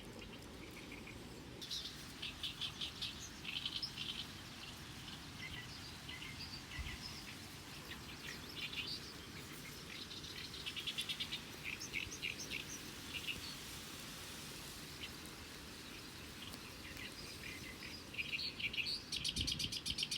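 Small birds chirping in short repeated phrases, with a fast trill near the end, over a steady low background noise.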